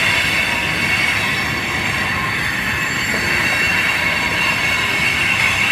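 Freight train cars rolling past with a steady high-pitched wheel screech over the rumble and noise of the wheels.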